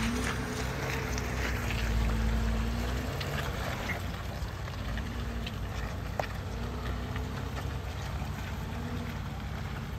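Jeep Wrangler's engine running under load as it crawls over rocks, rising and easing off a few times and loudest in the first three seconds. Tyres crunch over stones and gravel.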